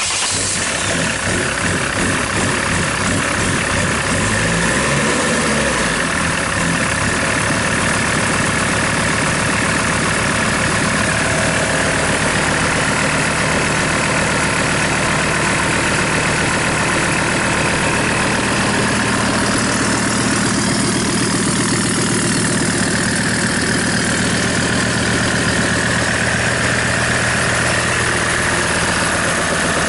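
SsangYong 665925 diesel engine, run outside a vehicle, starting right at the start and settling over the first several seconds into a steady idle during an oil pressure test.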